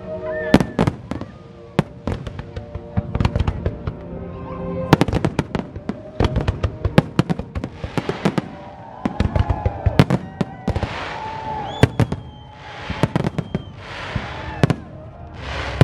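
Fireworks display: a dense, irregular barrage of shell bursts, often in rapid runs, with several spells of hissing crackle in the second half.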